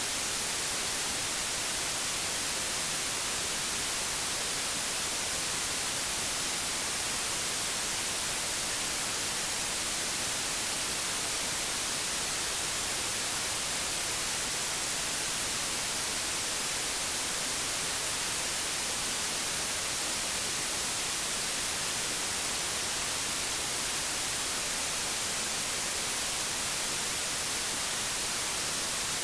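Analogue television static: a steady, even hiss, brightest in the treble, with no breaks or changes.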